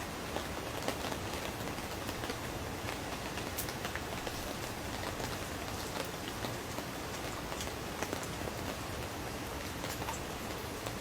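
Rain falling on a tent: a steady hiss with many scattered, sharp drop ticks.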